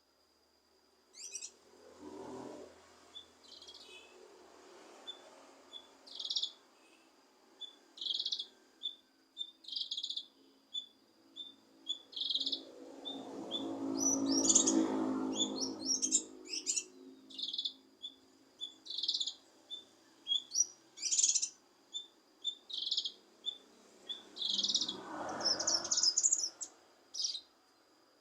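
A cucak kinoi singing a run of short, sharp chirps and quick trills, a few a second, in uneven phrases. A low rumble swells up twice, loudest in the middle of the song, under a faint steady high whine.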